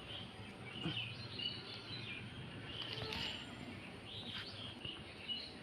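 Small birds chirping and calling in quick, repeated short notes, over a faint low rustle.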